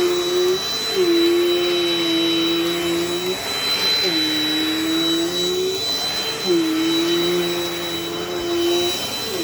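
Dirt Devil Dynamite Plus vacuum cleaner running with a steady high whine over its motor hum. The hum dips briefly in pitch about every three seconds.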